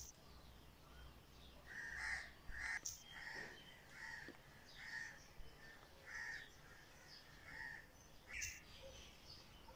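A bird calling in a series of short, faint calls, about one a second, starting about two seconds in.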